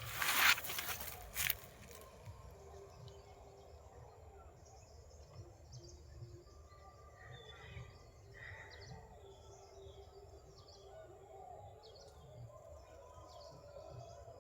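Forest birds calling: faint, scattered short chirps and whistled notes over a quiet background, with a brief loud noise in the first second and a half.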